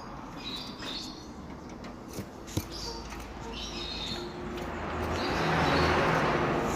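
Bullfinch giving short high chirping calls several times. Two sharp knocks come about two seconds in, and a louder rushing noise builds near the end.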